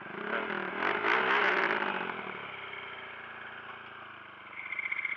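Single-cylinder dirt bike engine revved once, rising to a peak about a second in and dropping back to a steady idle. The bike idles poorly and tends to stall, so it is given a little throttle to keep it running.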